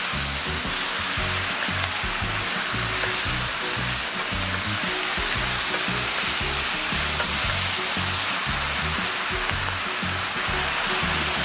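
Fish cakes and vegetables sizzling steadily in a frying pan in a bubbling chili-soy sauce as they are stir-fried with a spatula and wooden spoon, over background music with a bass line.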